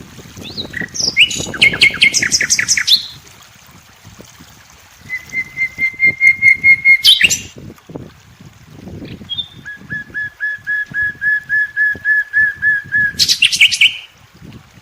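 A songbird singing three phrases, each a run of evenly repeated whistled notes that ends in a quick, higher flourish, with a low rumble beneath.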